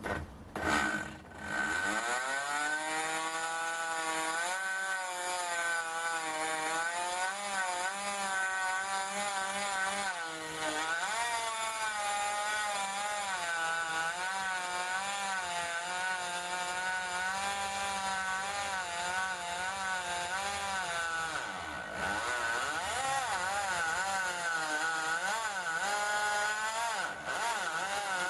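Electric hand drill driving a blue nano-coated HSS step drill bit into thin soft aluminium sheet. The motor and gearbox whine, with the pitch wavering up and down as the load changes and dipping twice. The gearbox is noisy because, by the owner's account, it is dying, and the bit is galling, deforming the aluminium rather than cutting it.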